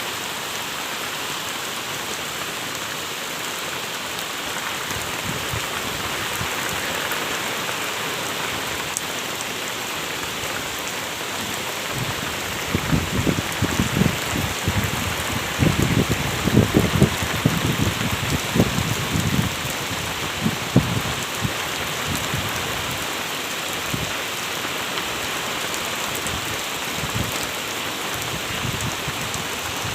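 Heavy rain falling steadily and pattering on surfaces. A run of low thuds comes in about twelve seconds in and lasts roughly ten seconds.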